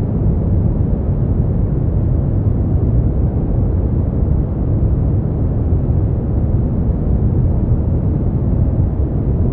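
Steady brown noise: a constant, deep rumbling hiss, strongest in the bass and with almost nothing in the treble.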